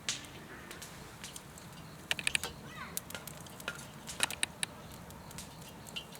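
Wood campfire crackling: scattered sharp pops from the burning wood over a low hiss, with a quick run of pops about two seconds in and another just past four seconds.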